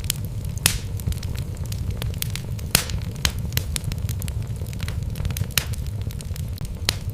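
Wood fire burning in a fireplace: a steady low rumble of flames under irregular sharp crackles and pops from the logs, a few of them louder snaps.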